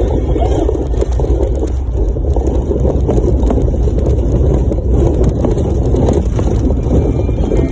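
Steady, loud rumble of a vehicle in motion, with wind buffeting the microphone.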